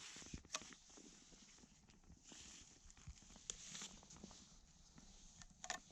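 Near silence: faint outdoor ambience with a few soft clicks and rustles scattered through it.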